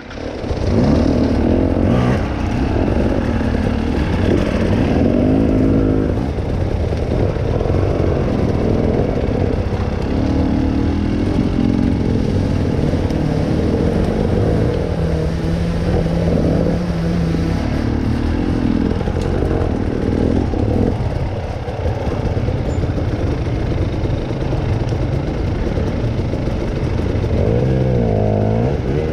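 Trail motorcycle engine running continuously under riding, its pitch rising and falling as it revs, with a sharper rev climb near the end.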